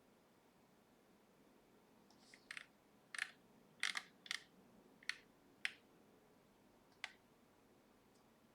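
A series of about eight sharp, irregular clicks, closely spaced in the middle and ending with a last single click near the end.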